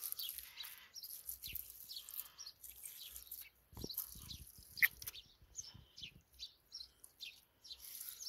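Small birds chirping in short, repeated high calls, with a few low knocks and one sharp click a little before the middle.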